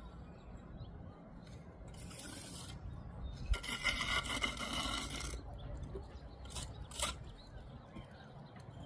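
A mason's tool scraping over mortar and brick: a short scrape, then a longer one with a ringing edge, then two sharp taps.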